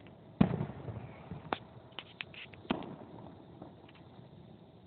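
Aerial fireworks shells bursting: a loud boom about half a second in that trails away, a sharp crack, some small crackling, then a second boom near three seconds.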